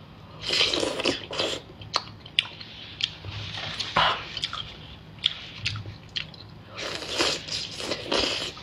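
A person biting and chewing skewered oysters in garlic and chili sauce: wet mouth sounds with scattered sharp clicks and smacks.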